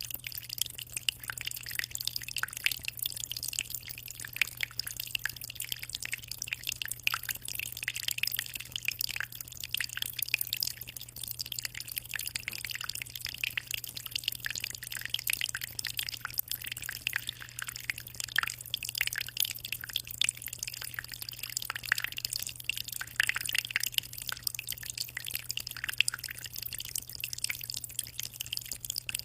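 Aquarium water trickling and splashing without a break, heard as a dense patter of small drips and splashes, over a steady low hum.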